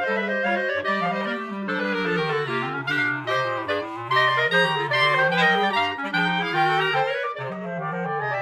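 A clarinet quartet playing live: a low line moving stepwise beneath several higher clarinet parts that change notes quickly.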